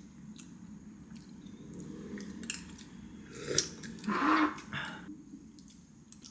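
Eating at the table: utensils clicking and clinking against bowls and dishes, with a louder noisy burst about four seconds in.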